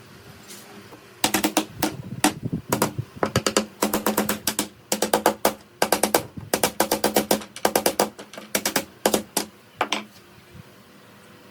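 A rapid run of sharp knocks or taps, coming in quick clusters of several a second, starting about a second in and stopping near the end.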